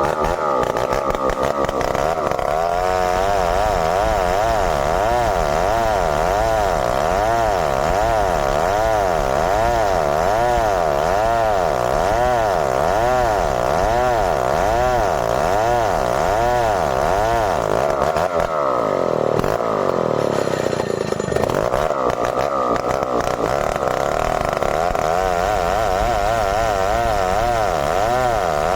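Stihl 070 two-stroke chainsaw running at high revs while cutting merbau hardwood. Its engine pitch rises and falls about once a second, and about two-thirds of the way in the pitch dips and then climbs back up before the steady wavering resumes.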